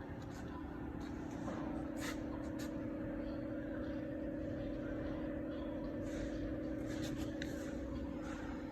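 Toyota 3RZ four-cylinder engine running steadily, with a few sharp clicks over it.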